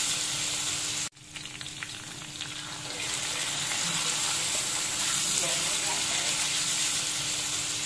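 Minced beef sizzling as it fries with onion, garlic and chilli in a pan, stirred with a wooden spatula. The steady sizzle drops suddenly about a second in, with a few light spatula scrapes, then builds back up.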